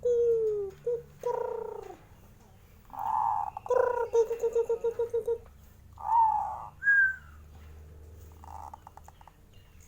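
Zebra dove (perkutut) cooing in a series of short phrases. One phrase breaks into a rapid run of short repeated notes, about seven a second.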